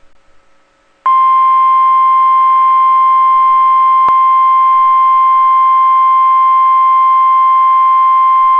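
NOAA Weather Radio warning alarm tone (1050 Hz): one loud, steady high-pitched tone that starts about a second in and holds, with a brief click partway through. It is the alert that a warning broadcast is about to follow.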